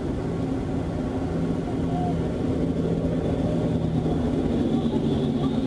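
Steady vehicle engine hum over a low rumble.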